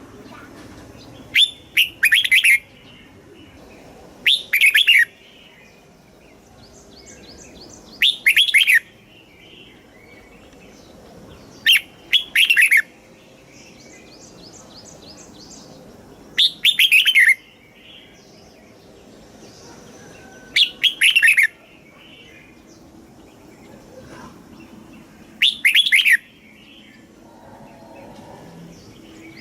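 Red-whiskered bulbul singing: a loud, short, warbling song phrase repeated about every four seconds, with fainter chirps and trills between the phrases.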